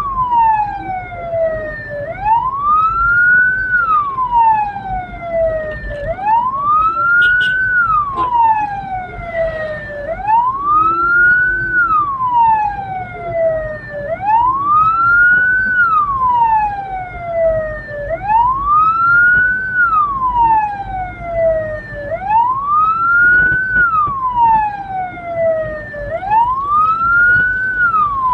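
Hearse's electronic siren wailing, with its pitch rising quickly and falling slowly about once every four seconds, over a low vehicle rumble.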